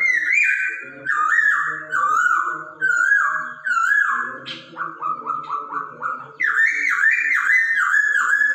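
Hongkong poksay (laughingthrush) singing a loud, clear whistled song: repeated swooping phrases with a quick run of short notes in the middle, the kind of song played to coax a caged poksay into singing.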